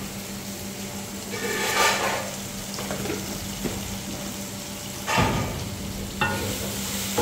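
Spiced onion-tomato masala frying gently in an aluminium wok, with a wooden spoon stirring through it and a few scrapes and knocks against the pan.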